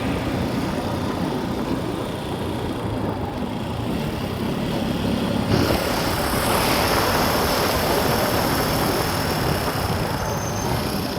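Motor vehicle running, a steady engine and road rumble, with a louder hissing rush coming in about halfway through and easing off near the end.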